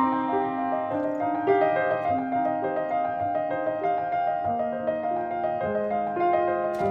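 Background music: slow piano playing sustained notes, with a brief click near the end.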